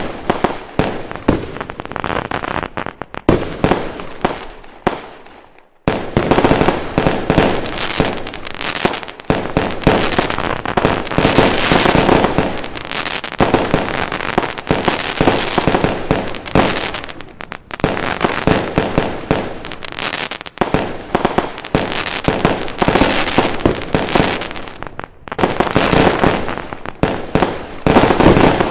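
Fireworks going off in dense, rapid volleys of bangs and crackling, with short lulls between barrages.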